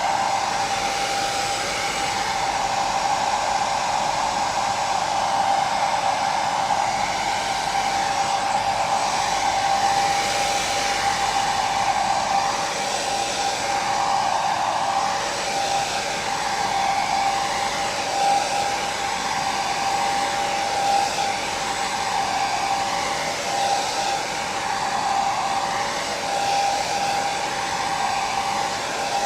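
Hair dryer running steadily: an even rushing blow of air with a constant motor whine in it.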